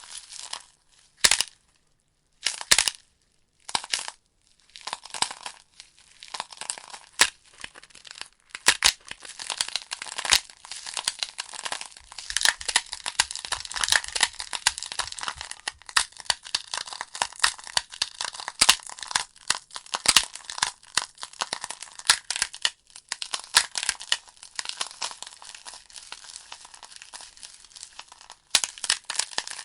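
Burning wood logs in a fireplace crackling and popping, many sharp snaps over a soft hiss. A few isolated pops in the first few seconds, then steady dense crackling.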